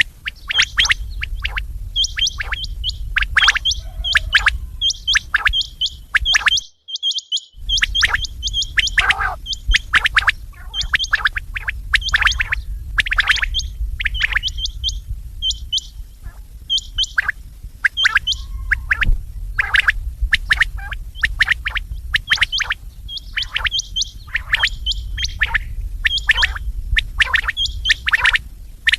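Desi bater quails calling over and over in rapid short chirps, sharp and high, many notes a second, over a steady low hum. The calling cuts out completely for about a second, then resumes.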